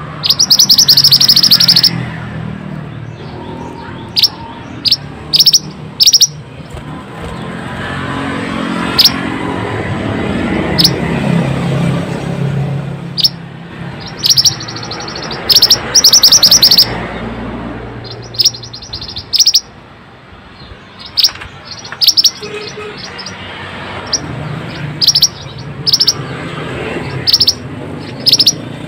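Mantenan bird song: a series of short, sharp, high chirps with several longer rapid trills of a second or two, over a steady low rumble of background noise.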